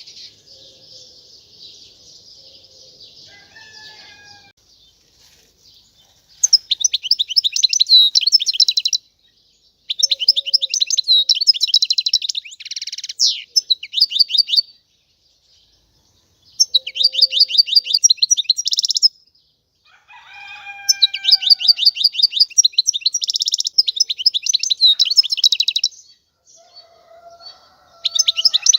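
European goldfinch singing: after a quieter opening trill, it delivers loud phrases of rapid, twittering repeated high notes, each a few seconds long with short pauses between them. A few fainter, lower gliding notes come in between phrases about two-thirds of the way through and near the end.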